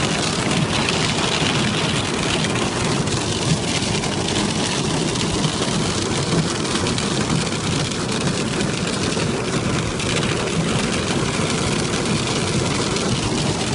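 Steady noise of rain together with a running vehicle: an even hiss over a low rumble, with no distinct events.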